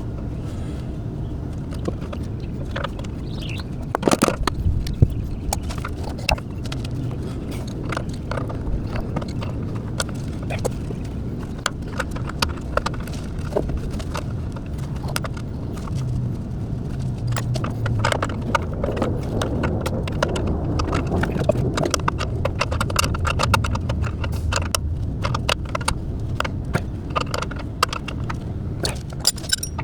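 Hand tools and metal parts clinking, tapping and scraping, a quick run of small clicks and knocks that grows busier in the second half, with one sharper knock about four seconds in, over a steady low hum.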